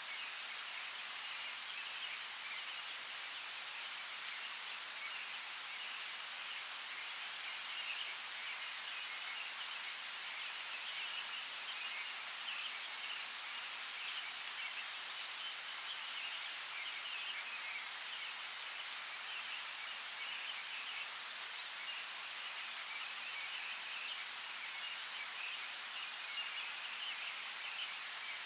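Steady rain falling, with scattered sharp drips and a thin, continuous twittering of distant birds.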